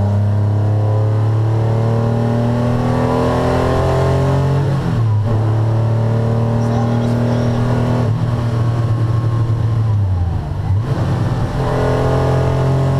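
1981 Porsche 911 SC's air-cooled 3.0-litre flat-six heard from inside the cabin, pulling hard with its pitch climbing under acceleration. The revs break off briefly about five seconds in and dip again around ten seconds in before climbing once more.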